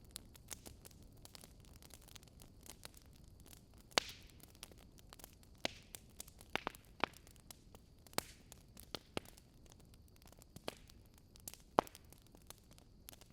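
Wood fire crackling, with sharp pops and cracks at irregular moments over a faint steady hiss. The loudest crack comes about four seconds in, and another near the end.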